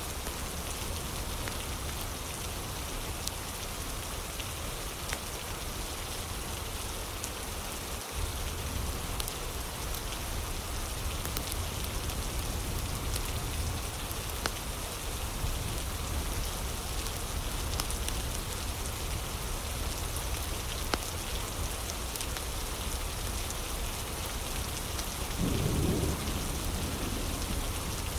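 Steady rain ambience with scattered small crackles of a fire, and a brief low rumble near the end.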